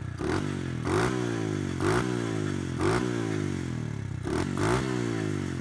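Modded 125cc pit bike engine idling and being blipped: six quick throttle blips, roughly one a second and the last two close together, each rising sharply and falling back to idle.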